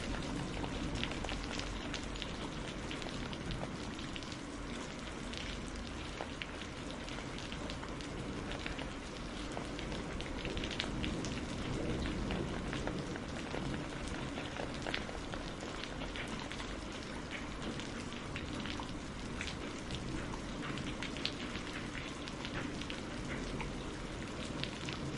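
Steady rain with many distinct drops ticking on a hard surface, falling evenly throughout.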